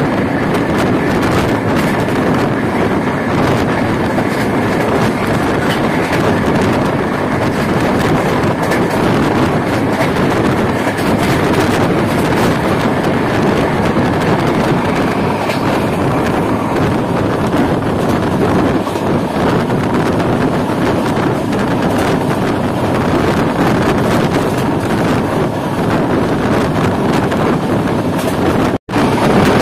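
Passenger train coach running along the track, heard from its open window: a steady noisy rumble of wheels on rails with irregular clicks. The sound cuts out briefly about a second before the end.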